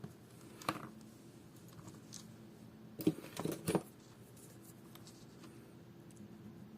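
Small tools and parts being handled at close range: a single sharp click a little under a second in, then a quick cluster of four or five clicks and light scrapes about three seconds in.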